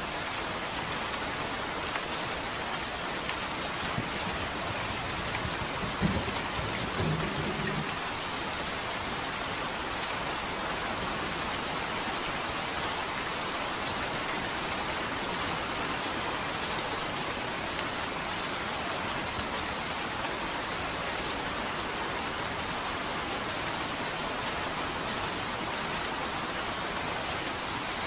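Steady rain falling on a surface, an even hiss with scattered drop ticks, and a short low rumble of thunder about six seconds in.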